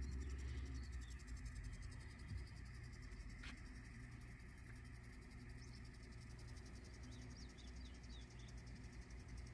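Quiet outdoor ambience: a steady low rumble with a faint high hiss. A few small bird chirps come near the end, and there is a single click in the middle.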